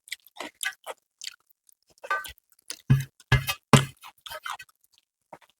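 Close-up chewing of food, a person eating with irregular wet mouth sounds and a few louder smacks about three seconds in.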